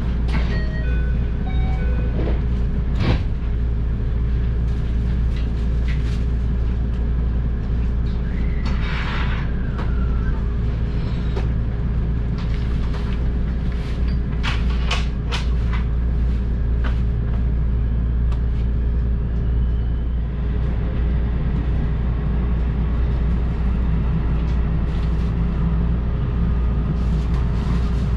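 Inside a JR Tokaido Main Line electric train running along the track: a steady low rumble with a constant hum, and scattered clicks and knocks from the wheels. Near the start there is a brief run of short tones.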